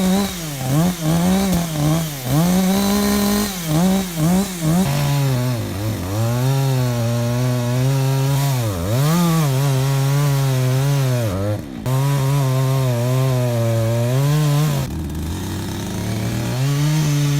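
Two-stroke chainsaw engine revving and cutting wood. Its pitch rises and falls quickly at first, then holds lower with repeated dips as the chain loads up in the cut. The sound breaks off briefly twice near the end.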